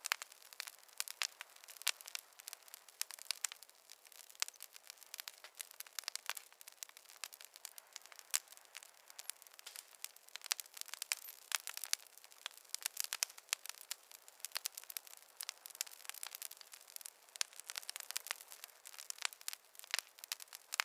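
Wood fire crackling in a fireplace: dense, irregular sharp pops and snaps over a faint hiss, with no low rumble.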